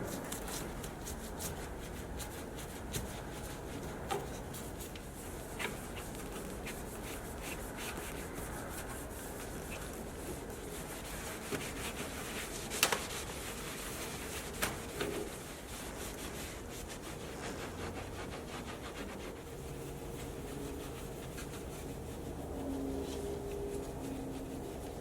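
Cloth or brush rubbing and scrubbing over a car's surfaces in steady strokes, with a few sharp clicks and taps, the loudest about halfway through.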